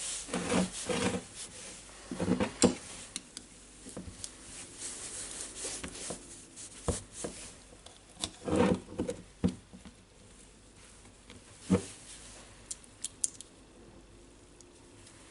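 Hand tools and small metal parts of a rotary hammer drill being handled at a workbench: several short clusters of clinks and knocks, with light scraping and rubbing between them.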